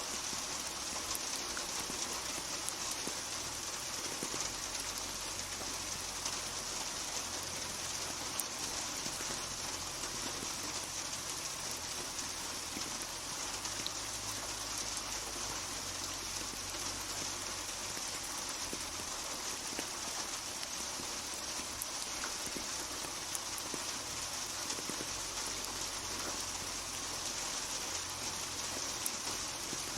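Steady rainfall, a constant hiss of rain with scattered individual drops pattering on hard surfaces.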